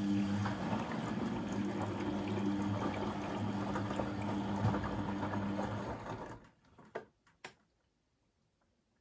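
Beko WMB 71643 PTE washing machine moving water with a steady electric hum over rushing, gurgling water. It cuts off about six seconds in, followed by two or three sharp clicks.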